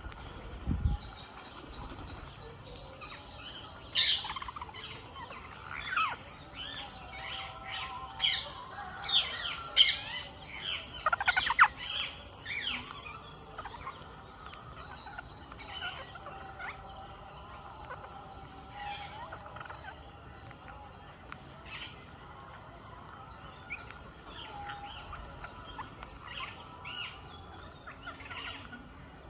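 Ring-necked parakeets calling: a burst of loud, sharp screeches crowded together in the first half, thinning to scattered quieter chirps later on.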